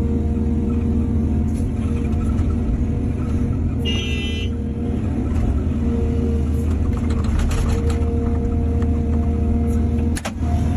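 Heavy earthmoving machinery's diesel engine running steadily, with a brief high-pitched squeal about four seconds in and a sharp knock near the end.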